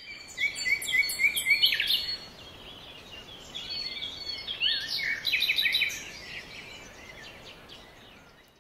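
Birds chirping and singing, with a quick run of repeated high chirps in the first two seconds and another burst about five seconds in, fading out toward the end.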